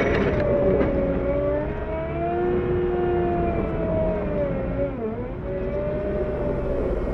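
CAT 908 compact wheel loader working, its engine and drive whine rising and falling in pitch, with a short dip about five seconds in.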